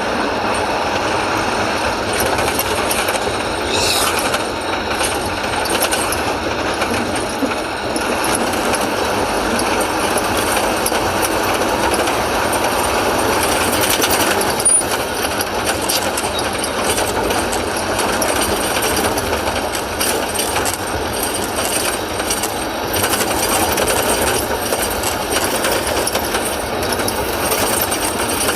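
Diesel engine of a JCB 3DX backhoe loader running steadily while it works, with light clatter.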